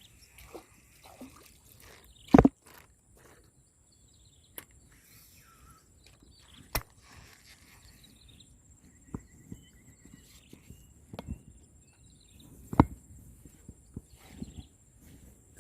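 Scattered knocks and thumps against a quiet outdoor background: a loud one about two and a half seconds in, another late on, and smaller ones between, with a short run of faint even ticks in the middle.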